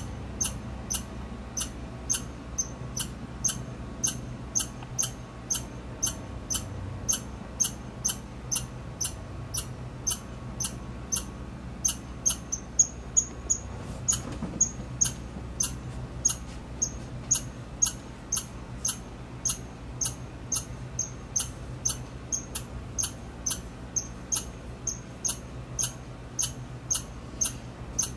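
Red squirrel giving a long, steady series of short, high-pitched chirps, a little under two a second.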